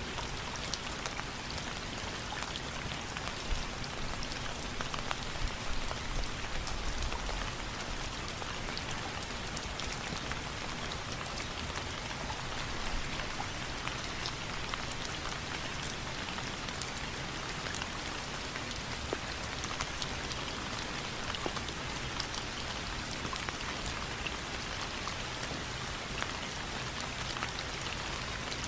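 Steady rain falling, with many scattered sharp ticks of drops through an even hiss.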